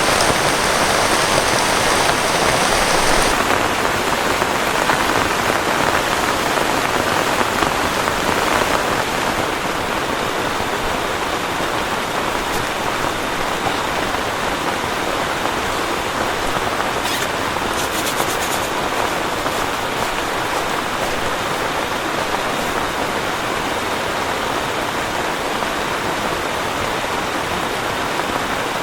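Heavy rain falling steadily, a little heavier for the first nine seconds or so.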